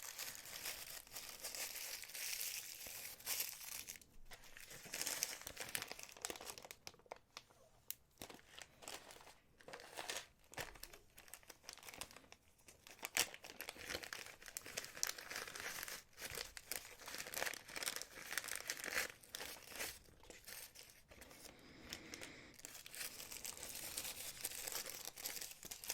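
Packaging crinkling and rustling as it is handled, with many small clicks mixed in.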